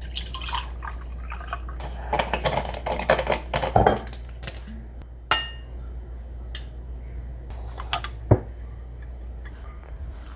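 Kitchen clatter of dishes and a glass being handled: a busy run of clinks and knocks, then a single ringing clink a little after five seconds and two sharp knocks near eight seconds, over a steady low hum.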